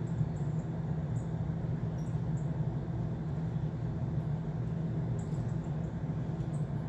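A steady low hum, with faint, very short high chirps every second or two, bird calls from a television.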